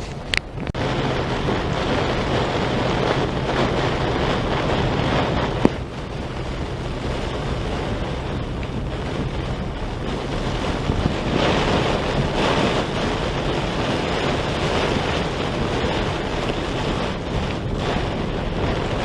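Heavy thunderstorm rain pouring down in a steady hiss, with wind buffeting the microphone. A sharp click sounds near the start and another about six seconds in.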